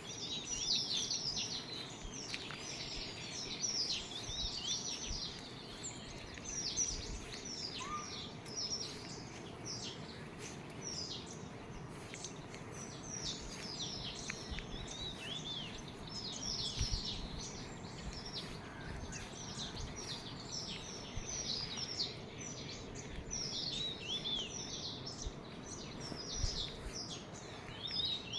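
Small birds chirping busily, many short high chirps that sweep down in pitch, coming in quick clusters throughout, over a steady low background rumble.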